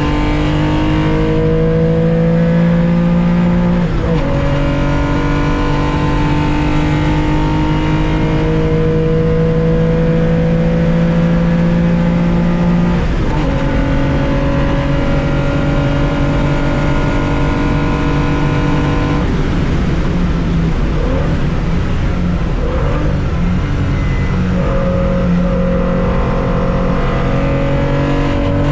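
A 1965 Porsche 911 2.0's flat-six engine heard from inside the car, running hard and pulling up through the gears. Its note climbs steadily and drops with upshifts about 4 and 13 seconds in. About 19 seconds in the note breaks up for a few seconds as the car lifts off and slows, then the engine pulls strongly and climbs again.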